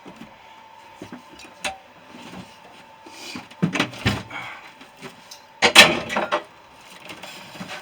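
Scattered sharp metal knocks and clinks from compressor parts being handled. The loudest cluster comes about two thirds of the way in.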